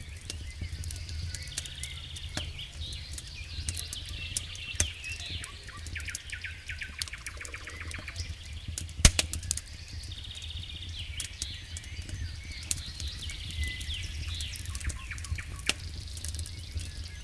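Birds chirping and trilling over a crackling campfire, with frequent sharp crackles, one loud snap about nine seconds in, and a low steady rumble underneath.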